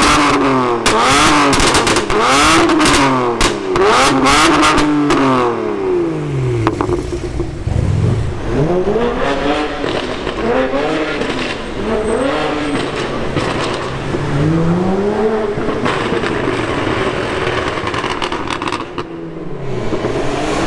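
BMW 1M Coupé's twin-turbo 3.0-litre inline-six being blipped over and over, the engine note rising and falling about once a second. In the first few seconds loud pops and crackles fire from the exhaust as the throttle is let off, the work of its anti-lag tune. After that the revs are softer, with fewer cracks and a single low thump.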